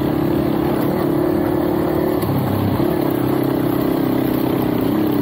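Two-wheeler engine running steadily while riding, its pitch dipping briefly about two seconds in and again near the end.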